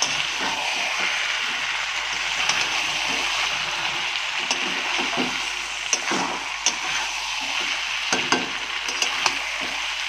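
Chicken pieces sizzling in oil and spice paste in a metal kadai while a spatula stirs and scrapes through them, with sharp clicks each time the spatula strikes the pan, several in the second half. The masala has been fried until the oil separates.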